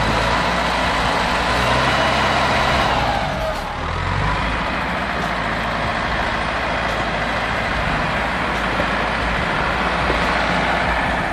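Heavy diesel machinery engine running steadily under load, with dense mechanical noise; the sound shifts character about three to four seconds in.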